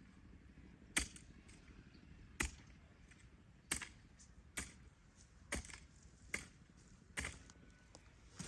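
A series of seven sharp chopping strikes at uneven spacing, roughly one a second.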